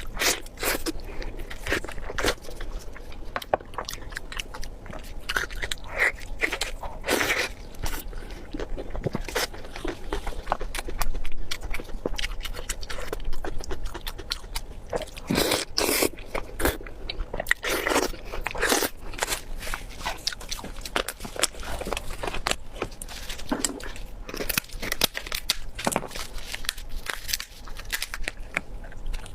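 Close-miked eating: a person biting and chewing food, with a dense, irregular run of crunchy, wet clicks and smacks.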